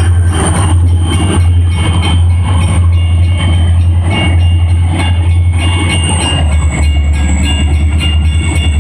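Wisconsin & Southern freight train rolling past, with a steady deep rumble and regular clicks of wheels over rail joints. A thin high-pitched squeal runs through it and drops slightly in pitch near the end.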